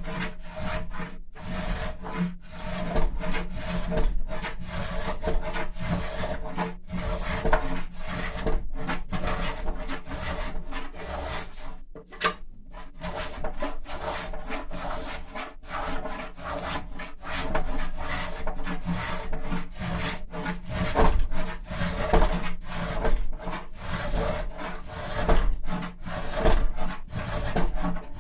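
Hand tool rasping and scraping the wood of a carved mulberry trough in repeated strokes, about one or two a second, as its walls are thinned.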